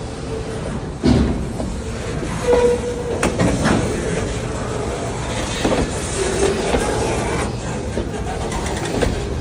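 A train rolling past close by: a steady rumble with its wheels clacking over the rail joints at uneven intervals, and a few short, high wheel squeals.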